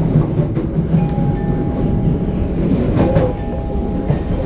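Toei 5300 series commuter train's running noise from inside the passenger car: a steady rumble of wheels on track with faint steady motor tones and a few sharp rail clicks.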